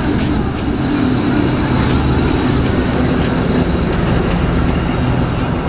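A train running close by: a loud, steady low rumble with an even hum and a few faint clicks near the start.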